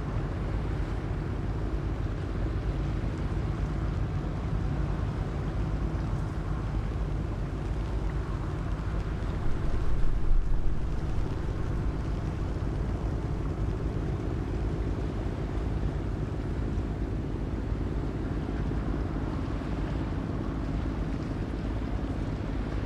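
Low, steady drone of a sand-carrying river boat's engine, with a louder low rumble swelling briefly about ten seconds in.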